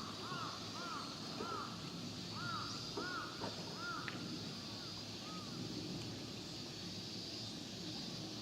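A bird calling repeatedly, short rising-and-falling calls about one every half second that stop about five and a half seconds in, over a steady high hiss and a low rumble.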